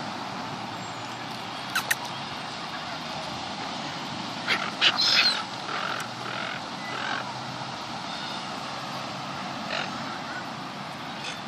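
Seagulls calling as they squabble over food: a quick cluster of calls about four and a half seconds in, then a few fainter calls over the following seconds, over a steady background hiss. Two sharp clicks just before two seconds in.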